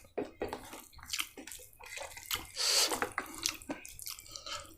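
Wet, sloshing and squelching sounds of soupy food being handled and eaten, with scattered small clicks. It grows louder for about a second around the middle.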